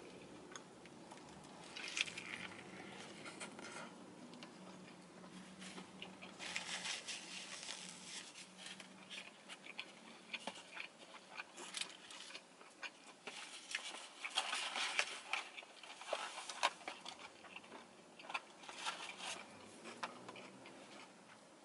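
Close-up chewing and crunching of a lettuce-wrapped chicken burger, coming in bursts of crisp clicks with short pauses between.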